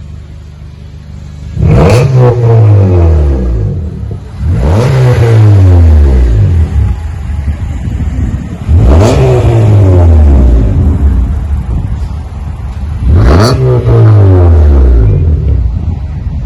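2015 Honda Accord LX four-cylinder engine revved through an axle-back split dual exhaust with single-chamber V-tube mufflers and a deleted resonator. It is blipped four times, about every four seconds; each rev climbs sharply, then falls slowly back to idle.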